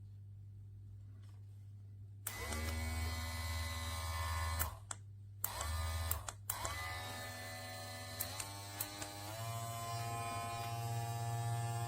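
Small electric motor of a Homerunpet dog clipper and vacuum grooming kit switched on about two seconds in, spinning up with a steady whine. It is cut off and restarted twice in quick succession, with clicks at the switching, then steps up to a higher speed near the end. A faint steady hum comes before it starts.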